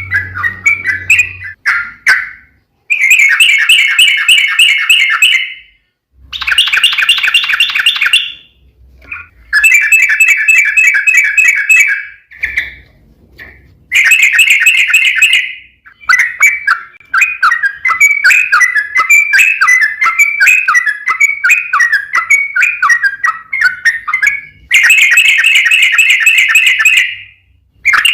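Yellow-vented bulbul singing: loud, fast rolling trills in bursts of about two to three seconds with short pauses, and one longer, more varied chattering phrase about two-thirds of the way through.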